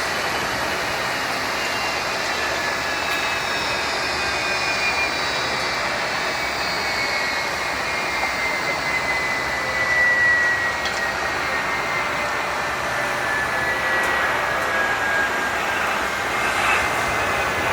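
Jet airliner's engines running, a steady rush of jet noise with a high whine that slowly falls in pitch.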